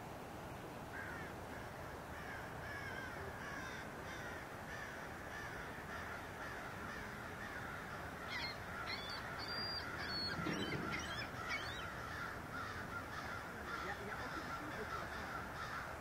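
A flock of birds calling, many voices overlapping continuously, with a few louder, sharper calls standing out about halfway through.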